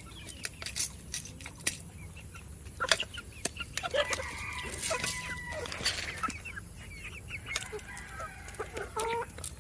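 A flock of four-month-old deshi and Fayoumi chickens clucking with short calls, among frequent sharp clicks. A longer drawn-out call runs from about four to six seconds in.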